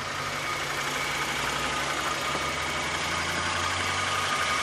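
2012 Kia Sorento SX AWD's engine idling steadily, with a steady high-pitched tone running over the low hum.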